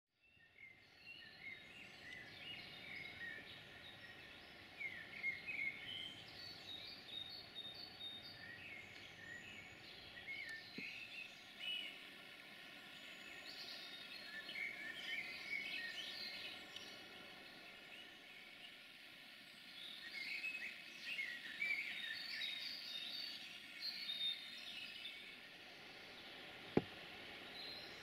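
Small birds chirping and singing in short, scattered phrases over a faint, steady background hum, with one sharp click near the end.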